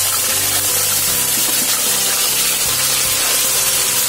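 Ground onion paste frying in hot oil in a kadai, giving a loud, steady sizzle as it is stirred with a spatula.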